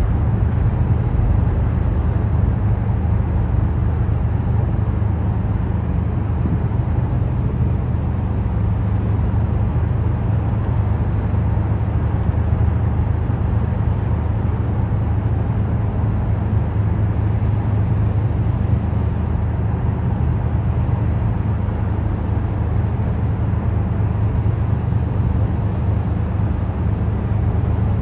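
Steady low rumble of outdoor city traffic noise, unchanging throughout.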